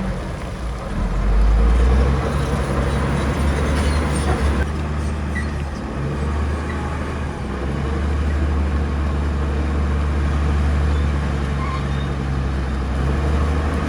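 Heavy diesel engine of earthmoving machinery running with a steady low drone, swelling briefly about a second in.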